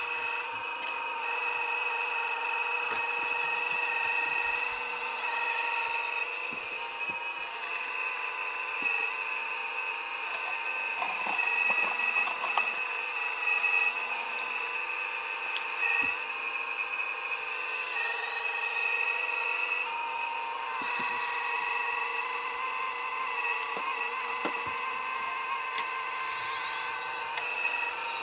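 A heavy earthmoving machine's engine and hydraulics running steadily with a whine, the pitch shifting a few times as it works, with a few short knocks.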